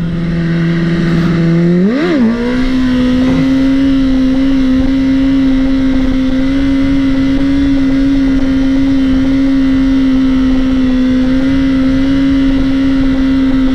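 Dirt bike engine running, with a quick blip of the throttle about two seconds in, then holding a steady, higher pitch.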